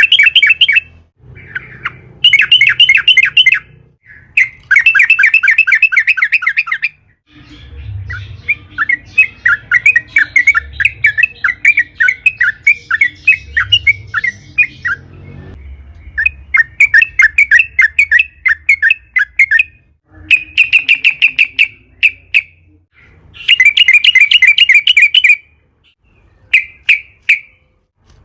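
Yellow-vented bulbul (trucukan) singing loud bursts of quick, bubbling notes, phrase after phrase with short pauses, including one long rambling phrase of several seconds near the middle.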